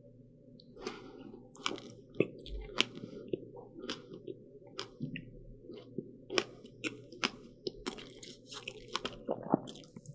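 Close-miked chewing of a crisp baked pastry: a run of sharp, irregular crunches and crackles as it is bitten and chewed.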